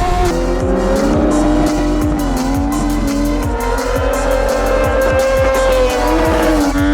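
A high-revving engine rising and falling in pitch as it is worked hard, with tyres squealing in a drift, all over music with a steady beat.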